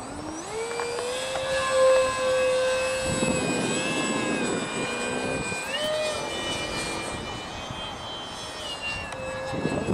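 Electric motor of a radio-controlled model aircraft spinning up to a steady whine, with a rising pitch as the throttle opens at launch. The pitch steps higher about six seconds in and eases back near the end, with a rushing noise in the middle.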